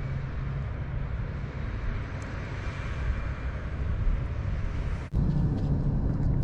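Steady wind noise on the microphone, a low, even rumble. It breaks off sharply about five seconds in and resumes louder.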